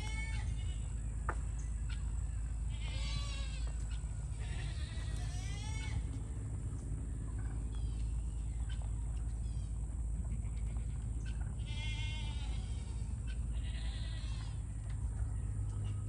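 Farm animals bleating: several wavering bleats come in two bouts, one about three seconds in and another about twelve seconds in, over a steady low rumble.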